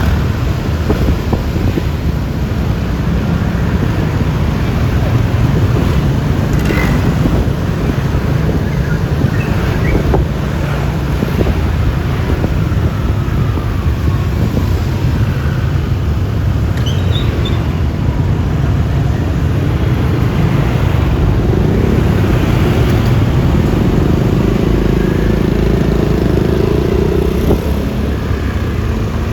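Riding sound from a Yamaha Lexi LX 155 scooter on the open road: wind rushing over the microphone over a steady rumble of engine and tyres, with traffic around. Late on, an engine note rises slowly in pitch over several seconds.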